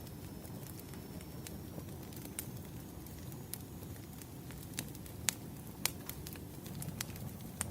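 Firewood burning, a steady low rumble with scattered sharp crackles and pops, a few louder pops in the second half.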